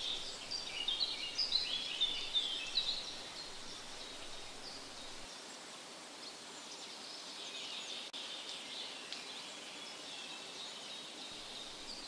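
Small birds chirping and twittering over a steady outdoor hiss. The calls are busiest in the first three seconds and come back more faintly around eight to ten seconds in.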